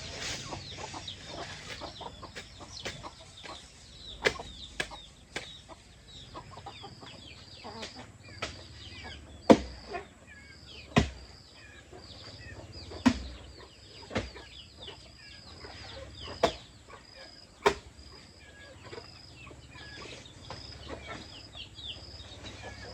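Chickens and chicks clucking and peeping in a steady run of short high calls. Sharp knocks come at irregular intervals, a few seconds apart.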